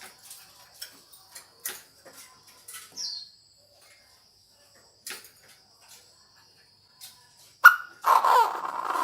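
Chinese francolin call: a sharp loud note followed by a loud, harsh burst of notes near the end. Before it there are only scattered sharp clicks over a steady high-pitched thin tone.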